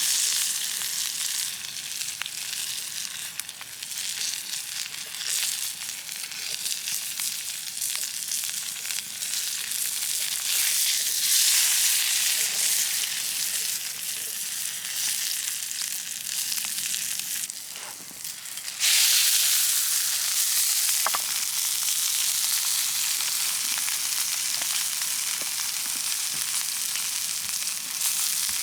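Food sizzling and frying in a pan over a campfire, a steady hiss that swells midway and turns abruptly louder about two-thirds of the way through.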